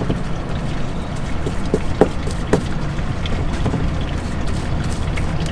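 Steady low rumble, with a few faint short taps around the middle.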